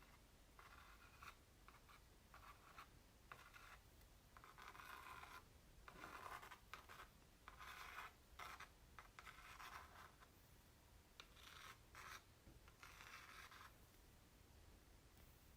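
Faint scratching and tracing over the surface of an acrylic painting on canvas, in a string of short strokes with brief pauses between them and a few light ticks.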